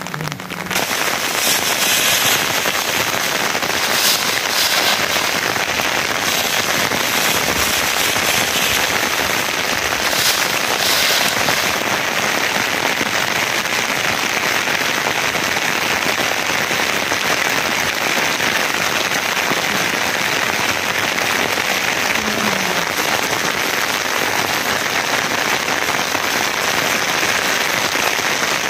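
Rain falling steadily, a dense hiss of drops that swells briefly a few times.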